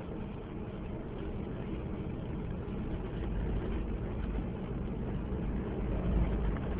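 A car driving: steady low engine and road rumble, growing a little louder in the second half.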